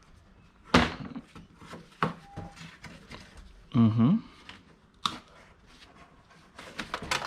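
Scattered sharp clicks and knocks of small scrap electronics and cords being handled and set down, the loudest about a second in and a cluster near the end. A short voiced hum comes about halfway through.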